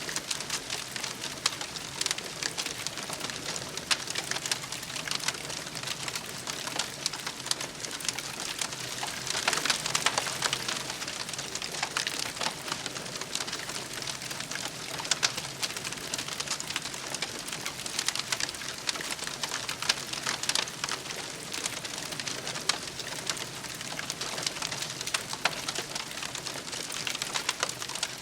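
Wood campfire crackling, with a steady hiss and a constant scatter of sharp pops and snaps. The hiss swells for a couple of seconds about ten seconds in.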